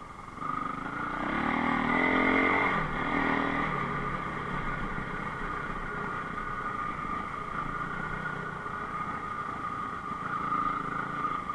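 Enduro motorcycle engine revving up about two seconds in, then running steadily.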